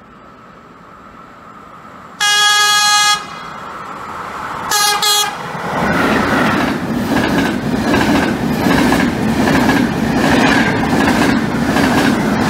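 Trenitalia Intercity train approaching and passing at speed. It sounds its horn once for about a second, then gives a shorter double toot. The coaches then go by close, with a rhythmic clickety-clack of wheels over rail joints.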